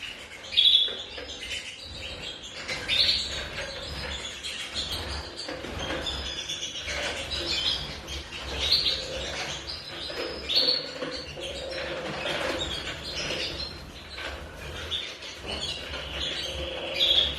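Canaries chirping again and again with short, bright calls, while wings flutter in their bath.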